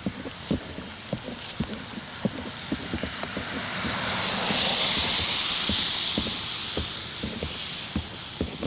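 A vehicle passing on a wet road: tyre hiss swells, peaks about halfway through and fades away. Irregular raindrop taps throughout.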